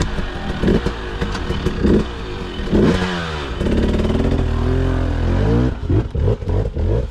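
KTM 500 EXC-F single-cylinder four-stroke dirt bike engine revving in bursts over rough ground, its pitch climbing and dropping with the throttle, most sharply about three seconds in. Short clattering knocks come through alongside it.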